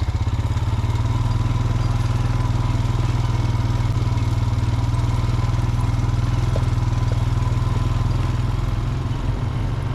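Four-wheeler (ATV) engine running steadily while riding, with a strong low rumble and a fast, even pulse.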